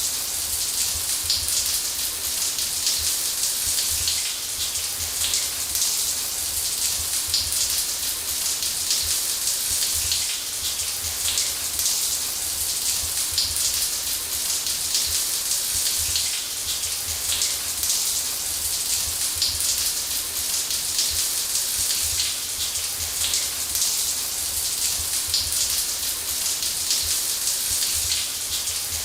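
Shower spray running steadily: an even hiss of water falling, with fine droplet spatter and a low rumble beneath.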